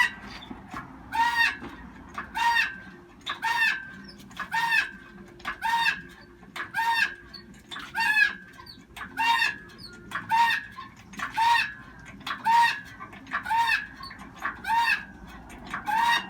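A bird calling over and over, a short falling call about once a second.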